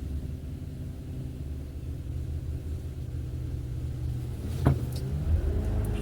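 Low, steady rumble of a car's engine and tyres heard from inside the moving car, with one sharp click about four and a half seconds in.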